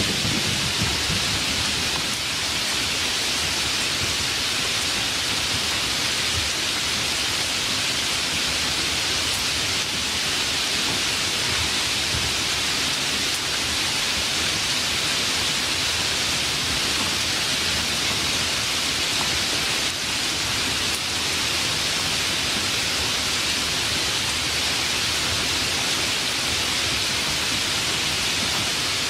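Steady, even rainfall of a rainstorm, a continuous hiss of falling rain. A low rumble fades out in about the first second.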